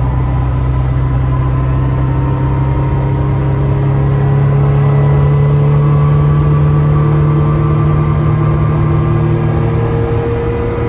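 1970 Porsche 911S's air-cooled flat-six engine pulling steadily under way, its pitch rising slowly as the car gathers speed, heard from inside the cabin.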